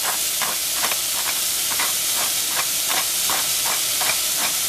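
Eggplant frying in a hot pan: a steady sizzling hiss with irregular crackles and pops, a few a second.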